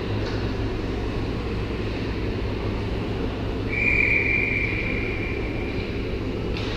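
Ice rink game ambience: a steady low hum and murmur, with one long high whistle tone starting a little past the middle and fading out near the end.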